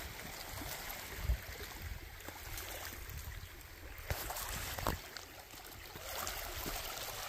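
Small waves lapping at the water's edge, with wind rumbling on the microphone and a few faint knocks.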